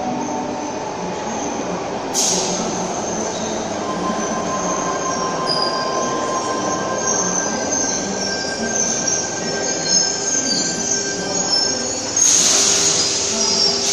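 A Sydney Trains Tangara electric train pulling into an underground platform. Its wheels squeal in several steady high tones over the running noise of the train. A sharp hiss comes about two seconds in, and a longer, louder hiss near the end as the train draws to a halt.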